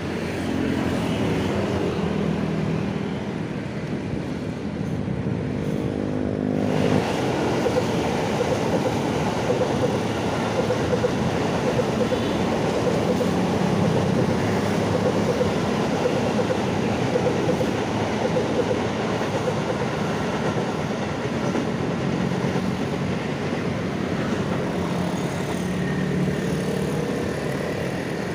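KRL Commuter Line electric train running on the tracks, a steady loud rumble of wheels on rail. About six and a half seconds in, the sound suddenly turns fuller and hissier as the train comes closer.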